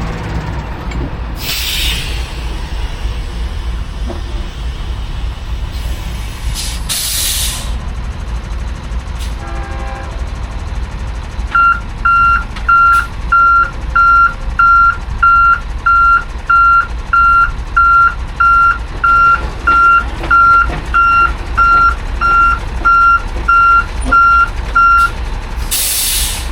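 High-rail truck running, with three short hisses of air, about two seconds in, around seven seconds in and at the very end. From about halfway its reversing alarm sounds a steady single-pitched beep, about one and a half beeps a second for some thirteen seconds.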